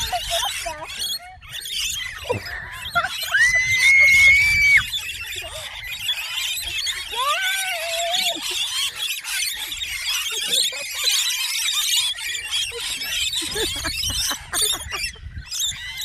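Many birds calling and chattering together, with a long steady whistled note about three seconds in and several shorter calls that slide up and down in pitch.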